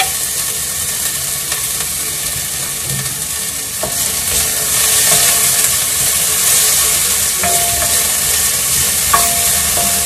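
Chopped ginger sizzling in hot oil in a stainless steel pan, stirred with a wooden spatula. The frying is steady, with a few light knocks of the spatula against the pan.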